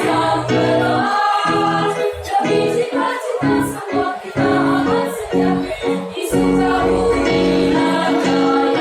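Junior high school choir singing a march in several-part harmony, with some notes held for a second or more.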